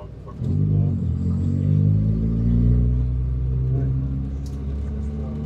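A car engine running at low, fairly steady revs, coming in loudly about half a second in and easing off slightly toward the end.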